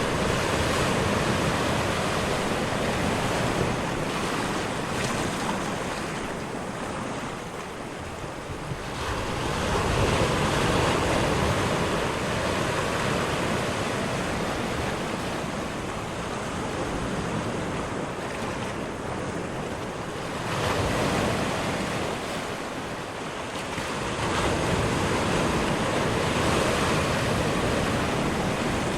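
Ocean surf: waves washing in and breaking, a steady rushing that swells and ebbs, with louder surges about every ten seconds.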